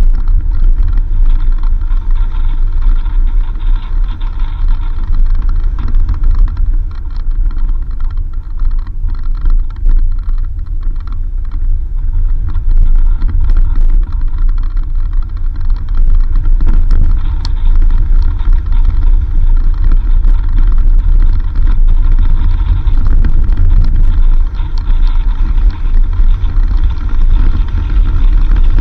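A 4x4 vehicle driving on a dirt road: a steady low rumble of engine and road noise, with frequent small rattles and knocks from the rough surface.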